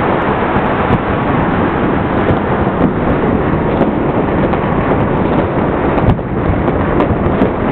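Massed firecrackers and fireworks going off across the city in a continuous dense crackle, with a few sharper bangs standing out, the loudest about six seconds in.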